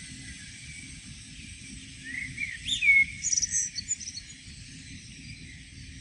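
A songbird chirping: a quick cluster of short high chirps and gliding whistled notes between about two and four seconds in, over a steady background hiss and low rumble.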